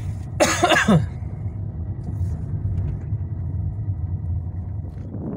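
A car rumbles steadily while driving. A short vocal sound with falling pitch comes about half a second in.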